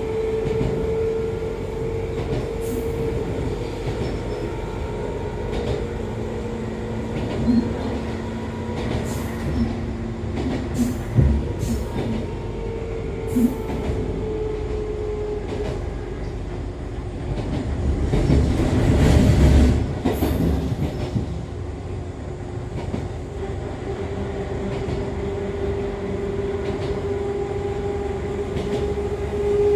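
Running sound inside an Echizen Railway MC6101 series railcar with MT54 DC series-wound traction motors, recorded on the car known for an abnormal running noise. A steady gear and motor whine fades about halfway and returns near the end. Scattered wheel clicks over rail joints and a swell of louder rumble about two-thirds of the way through run under it.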